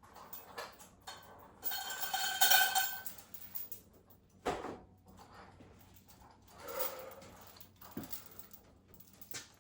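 Metal gym weights clanking, with one loud ringing clank about two seconds in and a couple of sharper knocks later.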